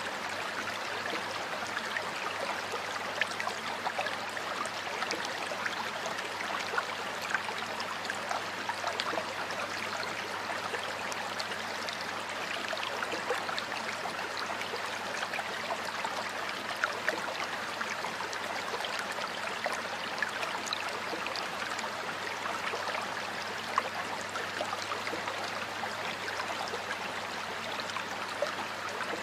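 Stream water running steadily over rocks, a continuous rushing with small splashes and trickles throughout.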